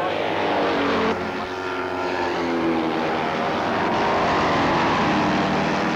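Several racing motorcycle engines running hard as the bikes pass. Their engine notes shift in pitch, dip briefly about a second in, then build to a peak a few seconds later.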